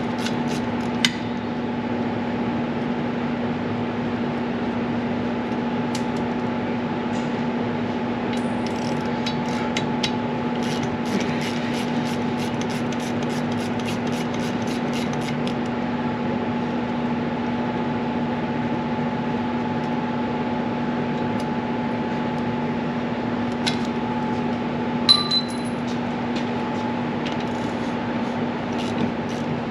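Socket wrench on a ratchet clicking in short runs of quick, even ticks as bolts under the car are undone, with a sharp knock about a second in and a ringing metal clink of tools near the end. A steady hum runs underneath.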